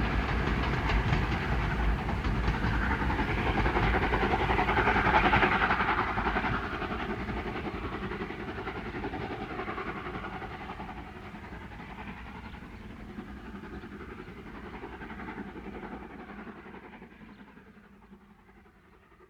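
Steam-hauled train running along the track with a dense rumble and rattle of wheels and carriages. It fades steadily from about six seconds in as the train draws away, and is almost gone by the end.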